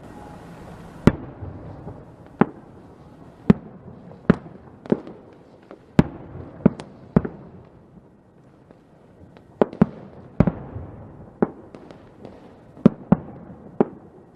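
Fireworks going off: about fifteen sharp bangs at irregular intervals, some in quick pairs, over a low background rumble. There is a short lull about halfway through.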